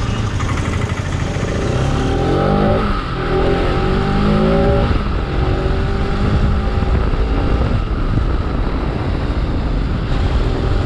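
Motorcycle engine revving: the pitch rises twice in the first half, then holds steadier over a low rumble.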